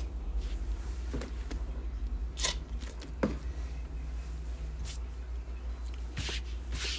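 Occasional brief rustles and soft taps of things being handled, over a steady low hum.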